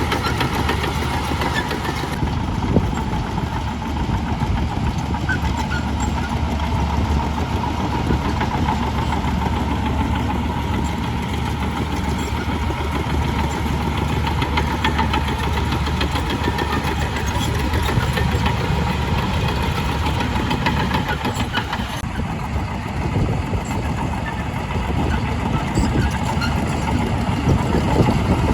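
Heavy diesel engine of earthmoving machinery running steadily, its sound shifting abruptly about two seconds in and again about twenty-two seconds in.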